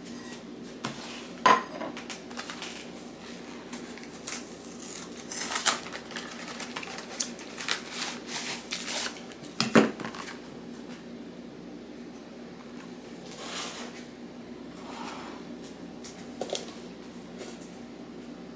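Kitchen dishes and utensils clinking and knocking as they are handled and set down, in irregular bursts with three loudest knocks, over a steady low hum.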